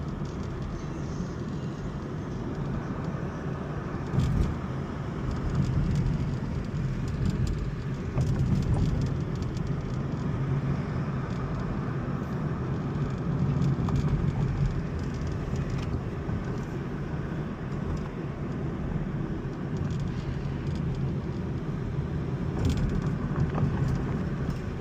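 Road and engine noise of a car being driven, heard from inside the cabin: a steady low rumble, with a brief knock about four seconds in and another near the end.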